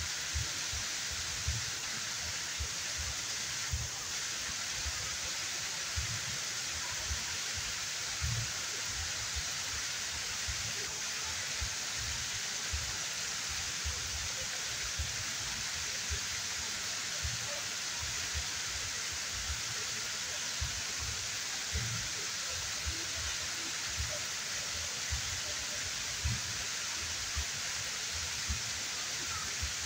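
Waterfall rushing steadily, with frequent irregular low thuds of the falling water underneath.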